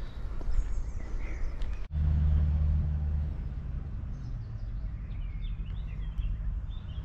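A train's steady low hum while it stands at a station platform, loudest for about a second after an abrupt cut near two seconds in, with birds chirping now and then.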